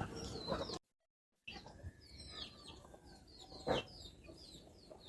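Faint bird chirps, a string of short high notes. The sound cuts out completely for about half a second near the start, and a single sharp knock comes in the middle.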